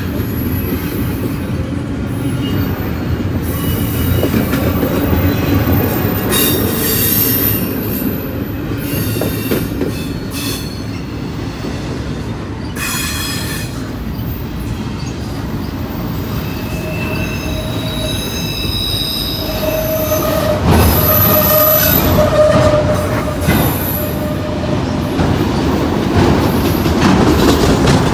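Freight train of double-stack container cars and autorack cars rolling past close by, with a steady rumble of steel wheels on rail. High wheel squeal comes and goes, strongest in the second half.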